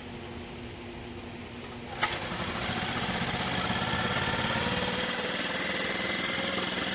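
Mercury 4/5 hp four-stroke outboard starting with a sharp click about two seconds in, after a faint steady hum, then running steadily. The motor has just been fixed of a no-start caused by an intake rocker arm off its pushrod.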